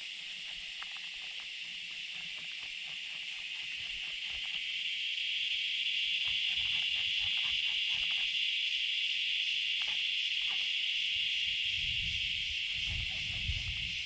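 A steady chorus of buzzing summer insects that swells about four seconds in, with a few light clicks. Near the end a low rumble of distant thunder comes in.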